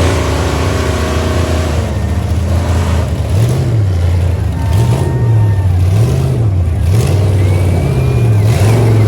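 A large off-road truck's engine running, then revved up and down several times in quick succession from about three seconds in.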